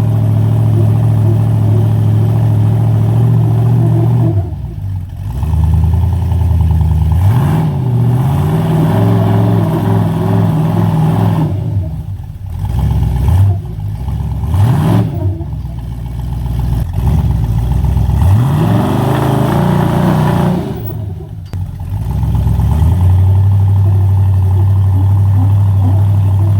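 Jeep engine running and being revved while crawling off-road. It holds a steady pitch for long stretches at the start and the end, and in between the revs climb and fall several times.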